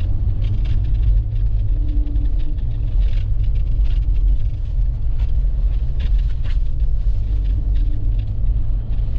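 A vehicle driving over deep, rutted snow: a steady low rumble of engine and tyres, with frequent short knocks and jolts from the very bumpy, rough ride.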